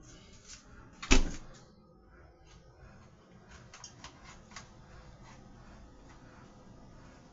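A single sharp knock about a second in, followed by faint light clicks and taps of kitchen handling.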